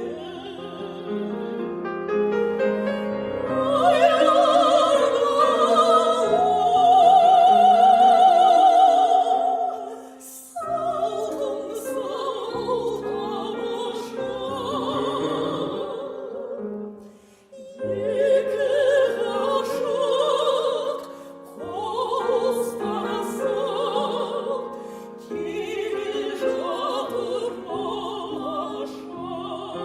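Operatic female voice singing a song with piano accompaniment, held high notes with wide vibrato, the phrases separated by short breaks about ten and seventeen seconds in.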